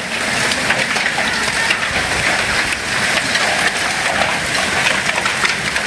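Heavy hail falling with rain: a steady, dense patter of many small hits.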